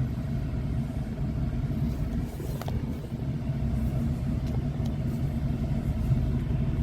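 Ram pickup truck's engine running with a steady low rumble, heard from inside the cab as the truck moves off, with a few faint clicks.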